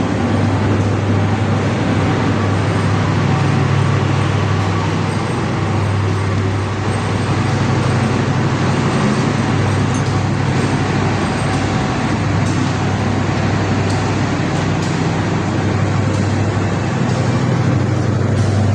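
KA Sawunggalih passenger train running steadily: a continuous rumble of running noise with a low, even hum underneath.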